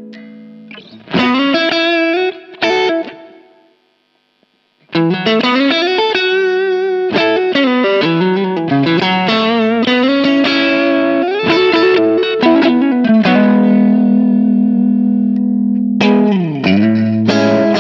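Soloking MS-1 Custom electric guitar played with distortion: a lead phrase of sustained notes with string bends and vibrato. It breaks off for about a second near 4 s in, and a note swoops down in pitch and back up near the end.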